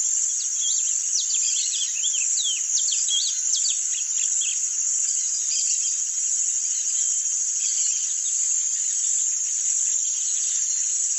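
Rusty-collared seedeater (coleiro-do-brejo) singing its 'grego' song, a rapid run of sharp sweeping notes that is busiest in the first few seconds and thins out afterwards, over a steady high-pitched insect drone.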